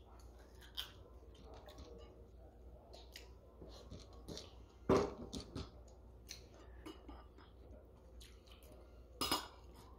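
Close-up mouth sounds of eating barbecue ribs by hand: chewing, lip smacks and small wet clicks, with two louder sharp sounds about five and nine seconds in.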